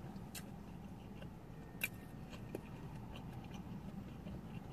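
Faint chewing, with small mouth clicks and smacks scattered through it and one slightly sharper click just under two seconds in.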